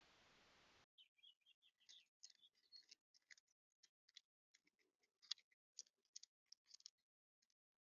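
Faint, irregular high chips and short twitters of small birds, several a second, after a brief burst of hiss at the very start.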